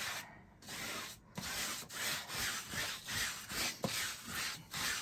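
A wide paintbrush scrubbing back and forth across a canvas, blending out wet paint, in quick regular strokes about two a second after a brief pause near the start.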